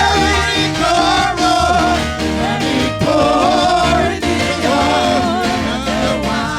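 Live gospel music: singers over a band with drums and a steady beat.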